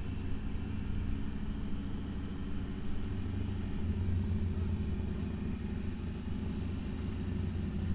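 Triumph Tiger 800 XRx motorcycle's three-cylinder engine running steadily at low speed in first gear.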